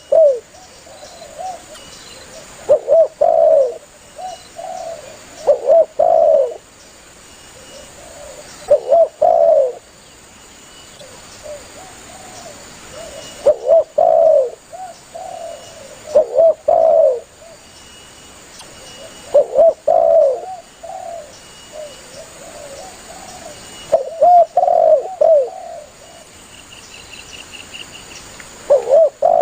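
Spotted dove (tekukur) cooing: a multi-note coo phrase repeated about every three seconds, with faint high chirps of other birds behind it.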